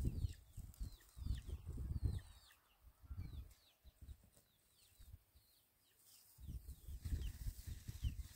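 Birds chirping over and over, short falling chirps, above irregular low thumps and rumble that are loudest at the start and again near the end, with a quieter stretch in the middle.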